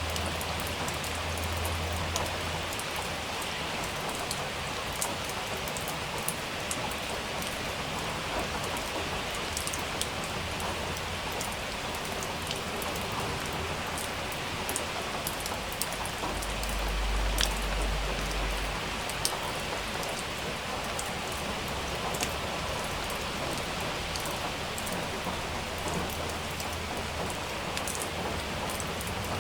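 Steady rain falling, with many sharp drips and drops hitting a surface. A little past halfway, a brief low rumble of distant thunder swells under the rain.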